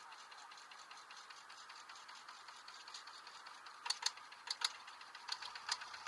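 A small engine running with a rapid, even ticking. A few louder clicks come in near the end.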